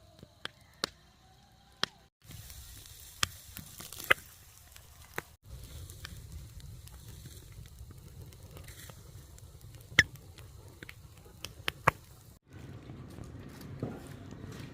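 Dry corn plants burning, crackling with scattered sharp pops.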